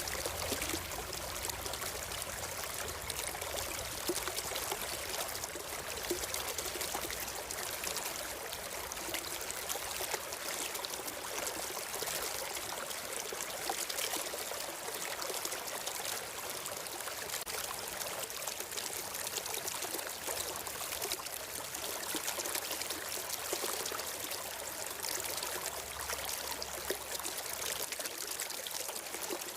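Stream of water flowing and trickling steadily, an even rushing sound without breaks.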